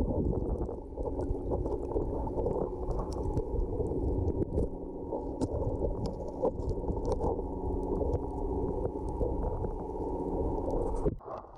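Underwater sound as heard by a diver's camera: a muffled rumble with a steady low hum and many small scattered clicks and crackles. The sound drops out briefly near the end.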